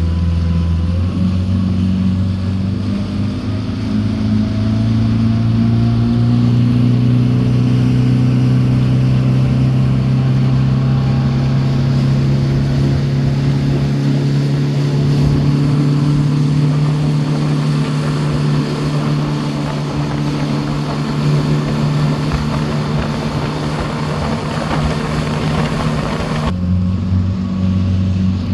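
A motorboat's engine running under way, with a rushing of wind and water over it. It speeds up over the first few seconds, holds a steady note, then near the end drops abruptly to a lower, slower note.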